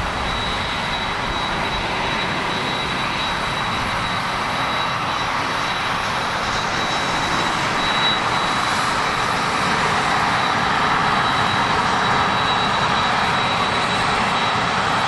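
Airliner engines running steadily: a continuous rushing noise with a thin high whine, growing slightly louder over the second half.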